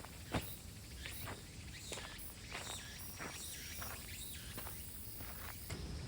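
Faint outdoor ambience: scattered light clicks and knocks at uneven intervals, over a faint steady high insect trill.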